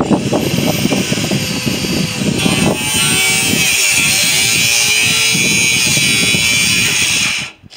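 Handheld electric power tool running and cutting into metal pipe, a steady hiss with a whine whose pitch dips briefly under load; it stops suddenly near the end.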